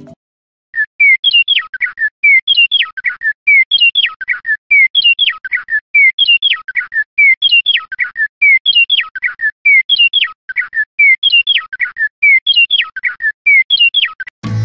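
A short birdsong phrase of quick high chirps, swooping up and down and falling at the end, repeated identically about every one and a half seconds, some ten times in a row: a looped birdsong recording of the kind a sound-making toy bird plays. It starts about a second in.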